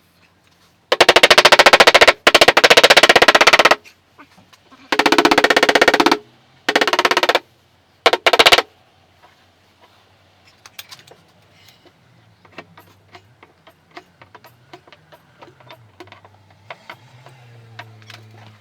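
A power tool with a fast hammering action rattles in five short bursts. The first two bursts are the longest, about a second and a half each, and the last is the shortest. Afterwards only faint clicks of handling are heard.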